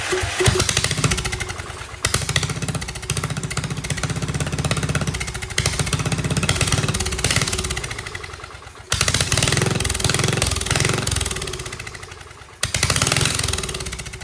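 Small engine on a test stand being cranked by its electric starter in repeated attempts of a few seconds each, every attempt starting suddenly and fading away, turning over without catching: the fuel is shut off.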